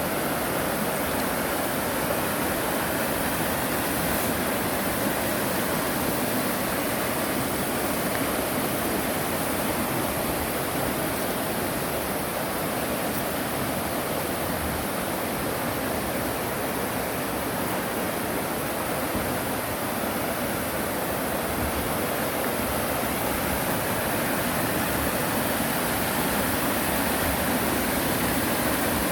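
Mountain valley stream rushing, a steady, even rush of water with no breaks.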